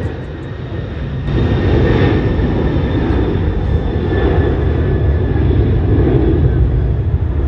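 Boeing 747-400LCF Dreamlifter's four jet engines at takeoff power: a loud, steady rumble that swells about a second in and holds.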